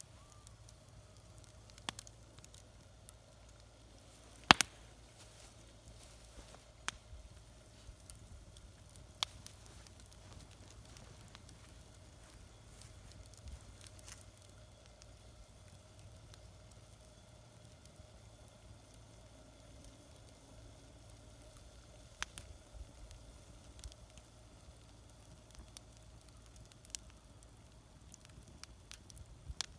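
Wood fire burning in a small homemade fire pit, crackling with scattered sharp pops, the loudest about four and a half seconds in.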